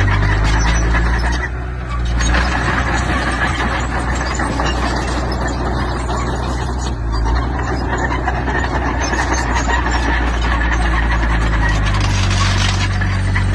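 Diesel engine of heavy earthmoving machinery running steadily, with dense metallic clatter and rattling over it; the level dips briefly about two seconds in.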